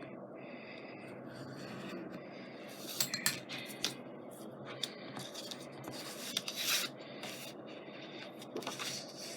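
Scrapbook paper being handled and slid across a work surface, rubbing and rustling, with a few light clicks of tools set down about three seconds in and a longer brushing rustle past the middle.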